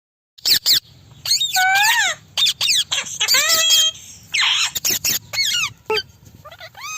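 Indian ringneck parrot (rose-ringed parakeet) calling: a string of short, harsh calls, many sliding down in pitch, coming in quick groups with short gaps. About halfway there is a brief hissy noise among the calls.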